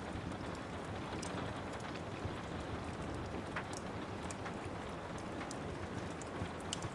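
Steady rain with a crackling fireplace: an even hiss of rain with scattered sharp pops and snaps from the fire.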